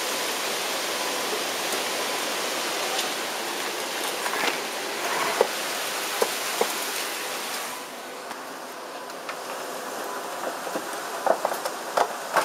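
Torrential wind-driven rain: a steady loud rushing hiss of the downpour. About eight seconds in it turns duller and quieter, and a few sharp knocks and taps stand out near the middle and again near the end.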